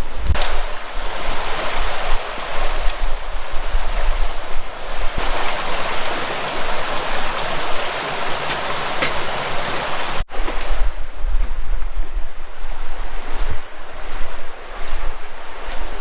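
River water rushing over rocks, loud and steady, with wind buffeting the microphone. The sound cuts out for an instant about ten seconds in.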